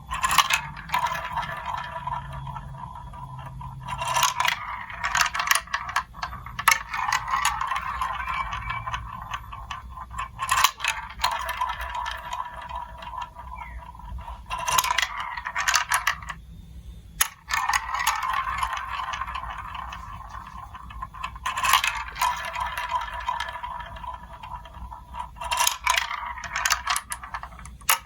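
Marbles rolling and rattling along a building-block marble run, a steady rolling whir with frequent sharp clicks as they strike and drop through the pieces. The rolling stops briefly a little past halfway, then picks up again.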